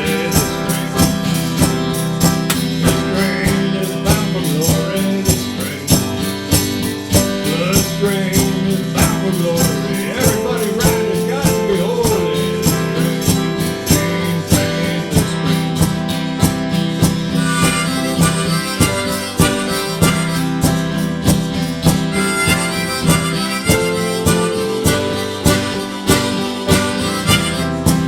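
Harmonica playing blues-style over guitar, with a steady beat running through.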